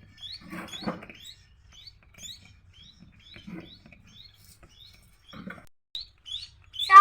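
Baby Bengalese finch begging while being hand-fed: short, high, rising chirps repeated about twice a second. Soft, lower scuffling sounds come in between a few times.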